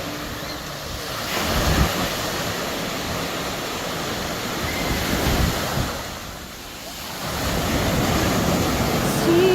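Sea waves washing onto the beach, the surf swelling and easing, with wind buffeting the microphone.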